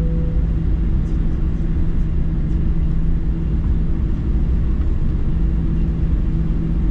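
Steady low rumble and hum inside the cabin of a Boeing 737-900 at the gate, with no change in level.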